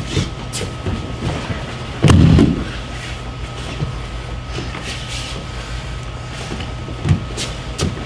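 A heavy thud, about two seconds in, of a body landing on the training mats in a roll or breakfall, then a smaller thud near the end. Light knocks and shuffles on the mat run in between over a steady low hum.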